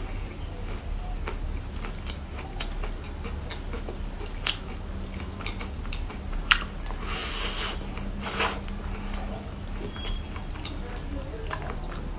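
A person chewing and biting food close to the microphone: scattered sharp clicks, with two louder noisy bursts about seven and eight and a half seconds in, over a steady low hum.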